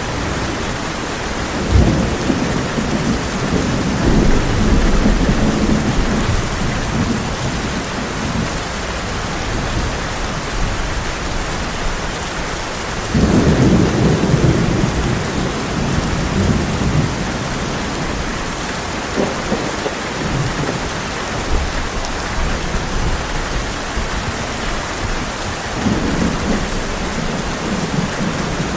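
Heavy rain falling steadily on a tin roof, with three low rolls of thunder: one about two seconds in, one around the middle, and one near the end.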